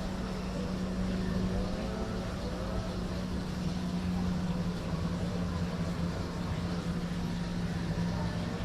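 A steady low mechanical hum with one constant tone, like a motor or engine running.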